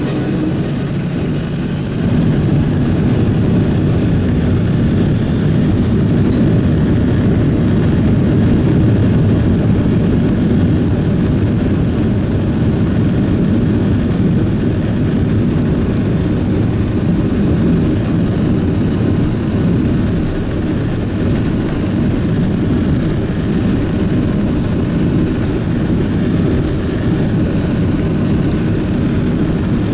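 Cabin noise of a Boeing 747-400 with its engines running: a steady, loud rumble with a fainter hiss above it, growing louder about two seconds in.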